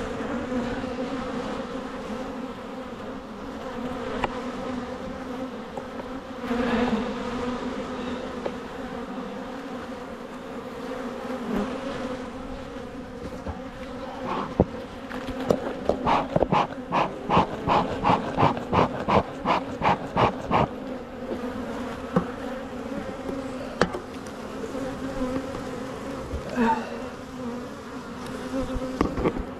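Honeybees humming steadily around an open hive, a low drone. About halfway through, a run of quick regular strokes, about three a second, lasts some five seconds over the hum.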